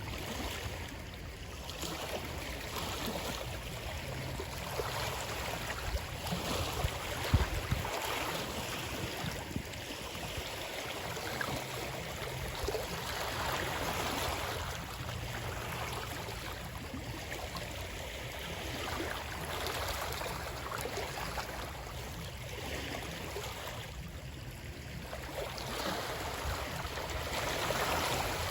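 Running water, a steady rushing and splashing that swells and eases every several seconds, with one brief sharper splash about seven seconds in.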